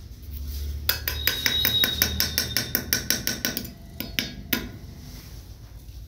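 A fast run of sharp taps or clicks, about six or seven a second, starting about a second in and lasting nearly three seconds, followed by three single clicks a little later.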